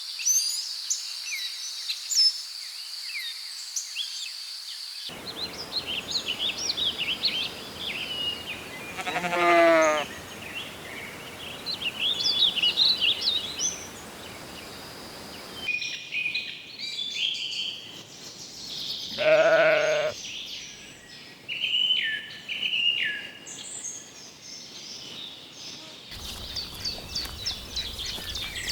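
Sheep bleating twice, each a wavering call about a second long, some ten seconds apart, over steady high-pitched birdsong.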